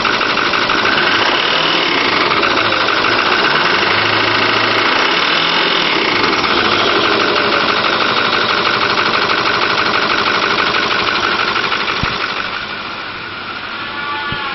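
A 2008 Ford F-250 Super Duty's 6.4 liter Power Stroke V8 turbo diesel running steadily with diesel clatter. It gets somewhat quieter near the end.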